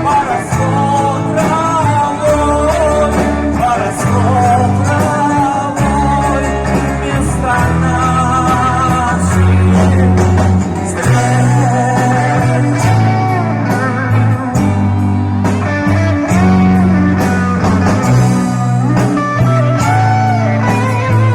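Live band music: a vocal-instrumental ensemble playing a rock song, with bass and guitar over a steady beat and a wavering melody line on top.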